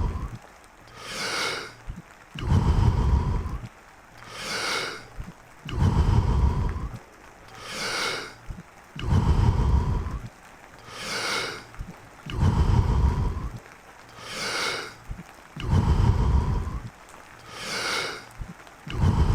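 A man breathing deeply and forcefully in a steady rhythm, Wim Hof Method power breathing: a full breath in and a full breath out about every three seconds, six cycles in all. One half of each cycle sounds low and full, the other shorter and higher.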